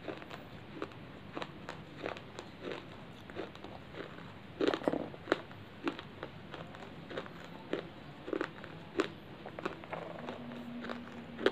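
Clay chips being bitten and chewed: irregular sharp crunches, a few a second, with a louder run about five seconds in.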